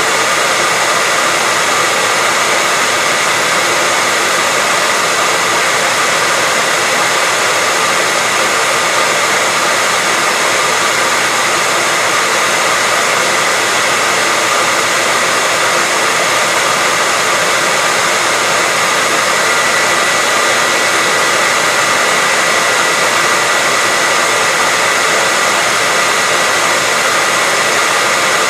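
Hair dryer running steadily: a continuous even rush of air with a steady high whine from its motor and fan, unchanging throughout.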